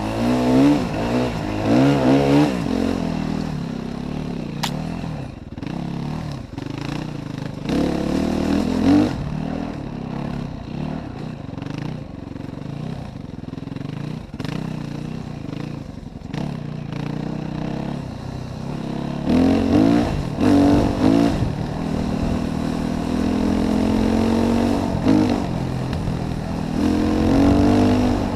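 Yamaha WR450F enduro motorcycle's single-cylinder four-stroke engine revving up and down in repeated bursts, easing off to lower revs in between.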